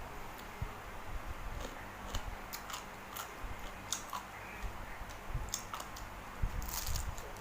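Close-up chewing and eating sounds, with scattered small clicks and taps, from someone eating a spicy seafood papaya salad.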